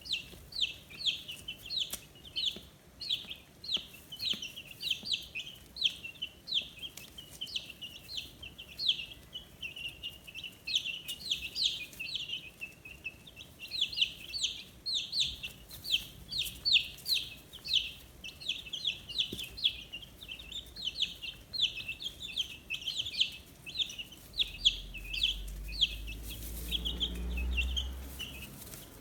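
A brood of 15-day-old chicks peeping without a break: many short, high, falling cheeps overlap at several a second. A low rumble joins in near the end.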